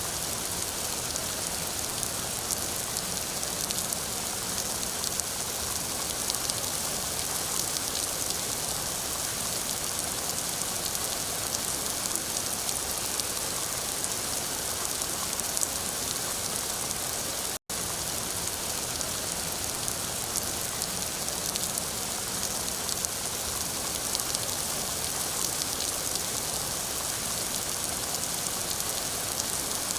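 Steady rain falling, an even hiss scattered with many small drop ticks. The sound cuts out for an instant a little over halfway through, then carries on unchanged.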